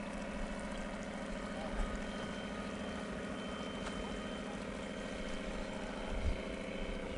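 A model boat's small engine running at a steady speed.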